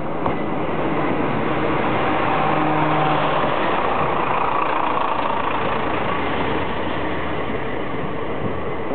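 Diesel railcar departing, its engine running under power as it pulls away, with a steady hum that swells to its loudest about three seconds in.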